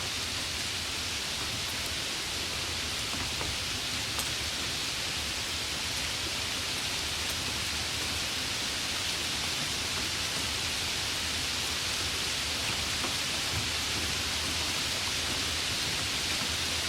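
Heavy rain falling steadily: a dense, even hiss with a few single drop ticks standing out.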